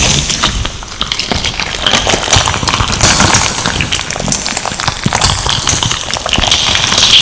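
Crunchy slime packed with crystal pieces being squeezed and pressed by hand, giving a dense, irregular run of small crackles and pops with swells of wet hiss.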